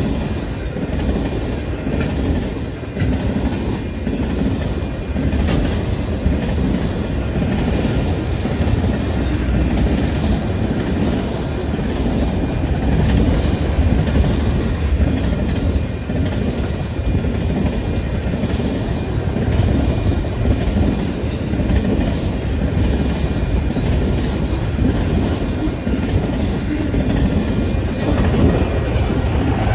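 A train rolling past close by: a long, steady rumble of wheels on the rails.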